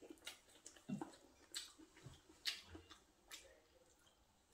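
Faint wet chewing and lip-smacking of a man eating rice by hand: a handful of short soft smacks that stop about a second before the end.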